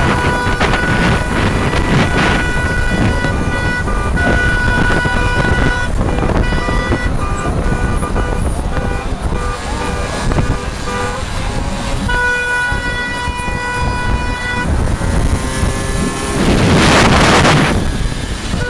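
Car horns honking in long held blasts, starting and stopping over dense street noise, with a loud rushing noise for about two seconds near the end.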